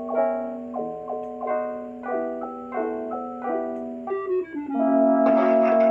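Demo music played through a Sound Blaster Pro sound card: piano-like chords struck about every half second over a held low note. About five seconds in it turns louder and fuller, with a long held tone.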